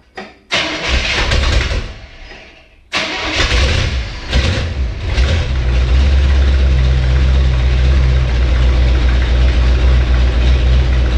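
1968 Chevrolet Camaro SS V8 starting after nine and a half years of sitting. It catches about half a second in, runs briefly and dies away, catches again about three seconds in with a few revs, then settles into a steady idle.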